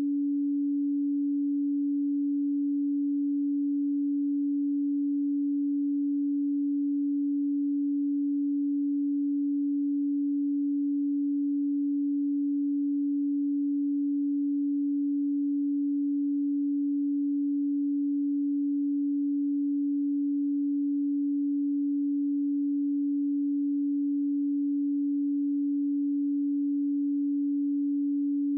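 A pure, steady 285 Hz sine tone: one low, unwavering hum with no overtones and no change in pitch or level.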